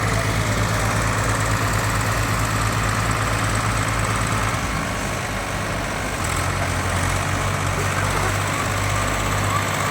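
Swaraj tractor's diesel engine running steadily with a regular pulsing beat. Its note shifts about four and a half seconds in and again about six seconds in.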